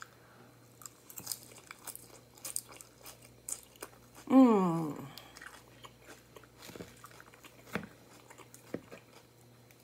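Close-miked chewing and biting of a grilled chicken salad with leafy greens: a string of small crisp crunches and clicks. About four seconds in comes a short hummed vocal sound that falls in pitch.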